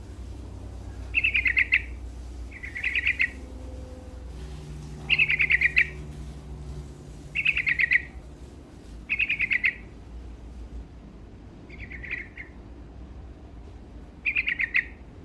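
Sooty-headed bulbul (trucuk) singing in full voice: short phrases of quick chirping notes, repeated about every two seconds, seven times.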